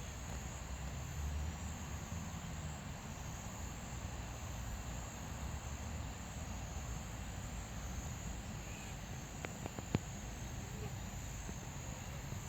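A steady, high-pitched insect drone with no break, over a low rumble. A single sharp click about ten seconds in.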